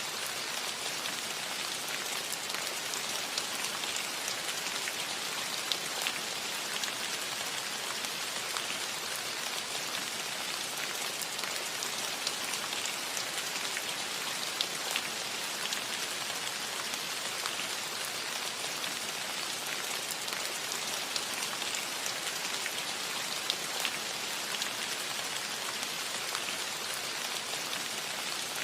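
Steady rain falling on a cottage roof: an even hiss with many scattered, sharper taps of single drops.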